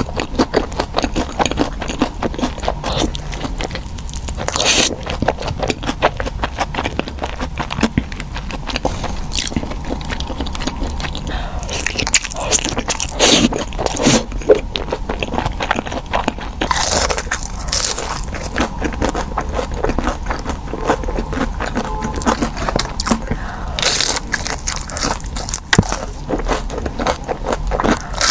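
Close-miked eating of crunchy food: repeated crunching bites and chewing, with a few louder crunches scattered through.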